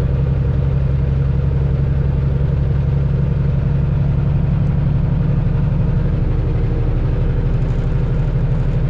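Semi-truck diesel engine running steadily, heard from inside the cab while driving at town speed, a deep even drone.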